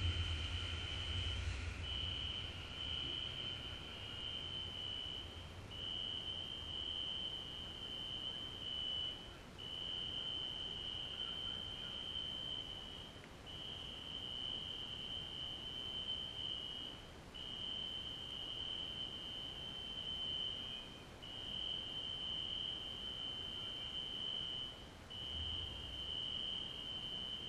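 Electronic alarm sounding one high, steady tone in long pulses of about three and a half seconds each, with short breaks between. A low rumble fades out over the first few seconds.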